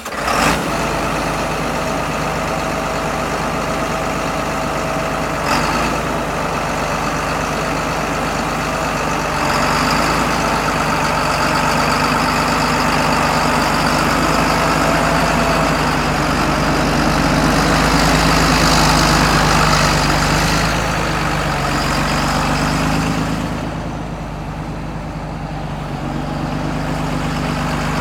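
A John Deere 8410T tracked tractor's diesel engine running just after being started. Its speed lifts about ten seconds in and again near twenty seconds, then drops back for a few seconds before picking up again. There is a brief sharp click about five seconds in.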